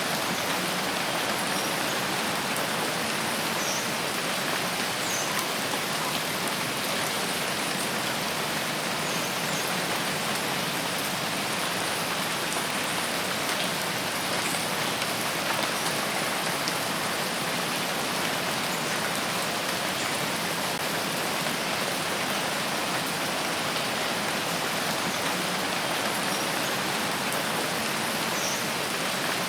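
Steady rainfall, an even dense hiss of drops on leaves and ground with no change in strength, and a few faint, short high-pitched chirps.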